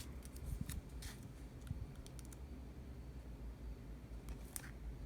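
Faint scattered snips and clicks of small scissors cutting and handling a piece of washi tape, over a low steady room hum.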